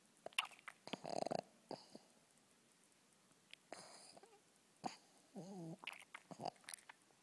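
A pug snoring and snorting in its sleep: irregular short rasping snorts and clicks through the nose, the loudest about a second in, with a brief wavering whine just past the middle.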